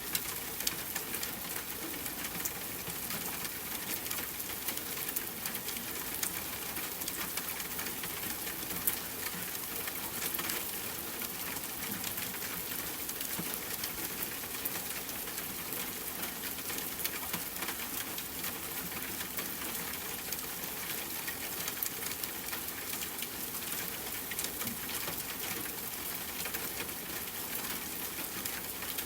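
Steady rain pattering with a dense scatter of small ticks and pops, mixed with a crackling campfire. A sharper pop stands out about nine seconds in.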